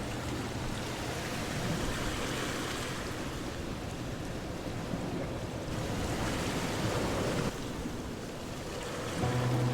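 Recorded ocean waves washing in, a noisy surge that swells and fades over a few seconds at a time. Soft background music notes come back in near the end.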